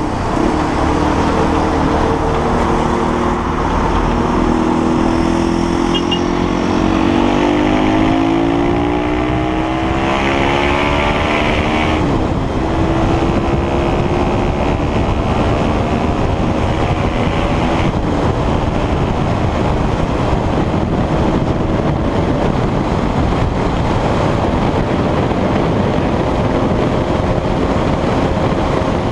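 A single-cylinder 200 cc motorcycle engine accelerating hard through the gears. Its pitch climbs steadily and drops back suddenly at a gear change about twelve seconds in, then climbs again more slowly, over a loud steady rushing noise.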